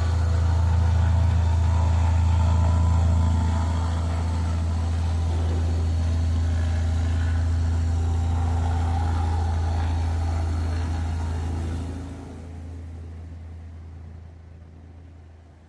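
Cessna 180 Skywagon's six-cylinder piston engine and propeller at takeoff power, a steady low drone. It drops off about twelve seconds in and fades as the plane moves away.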